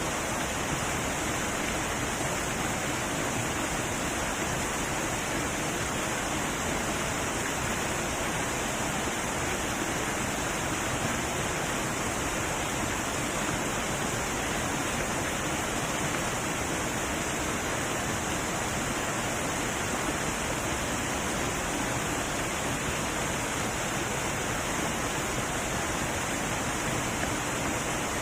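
Heavy waterfall: water pouring and splashing in a steady, even rush with no breaks.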